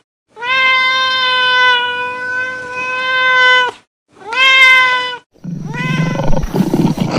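Cat meowing: one long, drawn-out meow held at a steady pitch, then a shorter one, followed about five and a half seconds in by a rougher, lower-pitched call.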